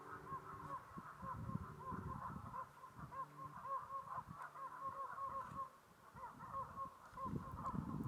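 Faint chorus of short, repeated bird calls, several a second and irregular, over low sustained tones that die away near the end.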